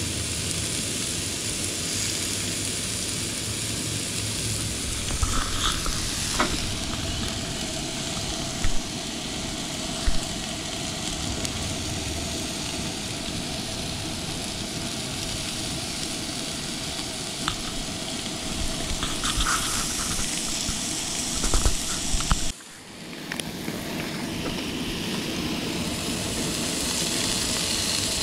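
Burger patties sizzling on a cast-iron griddle over a Coleman two-burner propane stove, a steady frying hiss. A few short clicks sound through it, and the sound briefly drops away about two thirds of the way in.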